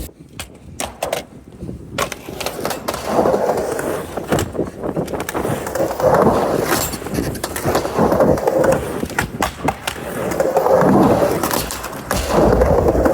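Skateboard rolling back and forth on a mini ramp. The wheel rumble swells and fades as the board runs up and down the transitions, with sharp clacks of board and trucks in between.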